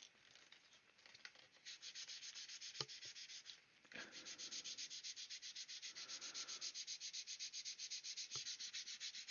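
Quick back-and-forth sanding on the plastic surface of a scale model kit: a faint, scratchy rasp in even strokes, a few lighter ones at first, then steady at about eight strokes a second from about four seconds in.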